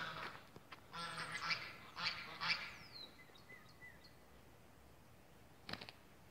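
Birds calling faintly: a run of honking calls over the first three seconds, then a falling whistle and a couple of short chirps, with a single knock near the end.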